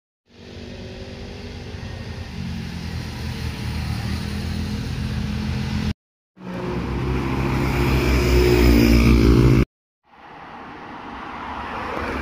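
Motorcycle engines passing in three short clips that cut off abruptly, each engine growing louder as it approaches; the second is the loudest.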